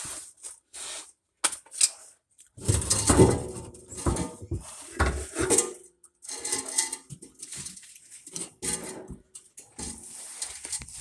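Metal clanking and scraping in irregular bursts as an old car exhaust pipe is worked loose and handled, loudest a few seconds in.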